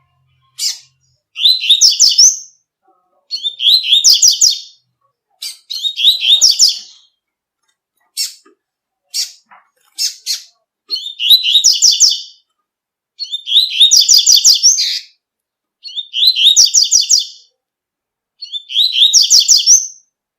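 Double-collared seedeater (coleiro) singing its tui-tui song: short phrases of rapid, high repeated notes, each about a second long and coming every two seconds or so. Midway through there is a pause filled with a few single short chips.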